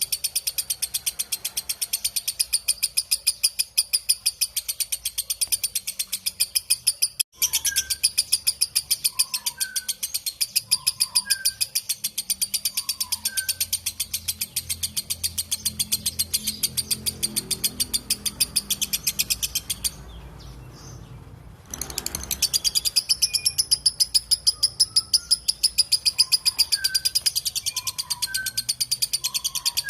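Lovebird giving its long 'ngekek' chatter: a fast, even, high-pitched run of repeated notes that goes on and on. It breaks off briefly about seven seconds in and stops for nearly two seconds about twenty seconds in before starting again, with fainter, lower chirps scattered through it.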